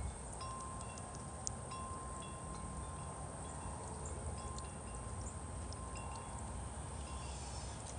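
Wind chimes ringing softly: a clear tone that fades and is struck again several times, with brief high tinkles, over a steady low background rush.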